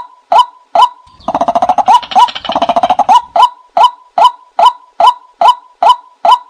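A short bird call repeated at a very even pace, a little over two a second. A faster rattling chatter joins it from about one to three seconds in.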